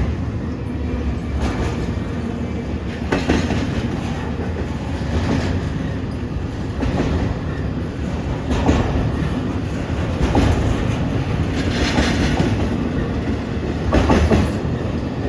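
Freight train cars rolling past at speed: a steady low rumble of wheels on rail, with a sharp clack from the wheels over the rail joints every second or two.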